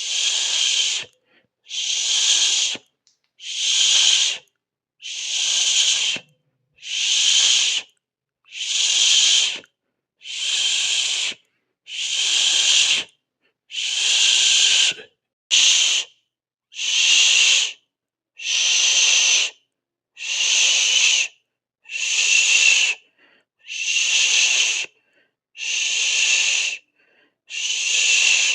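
A person making a long hissing 'shhh' through the teeth, over and over in a steady rhythm, one breath-long hiss about every two seconds with short silent gaps between.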